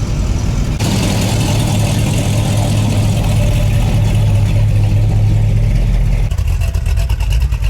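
A car's engine running with a deep, strong note close by, growing louder about a second in as it drives past, then easing off with a pulsing exhaust note near the end.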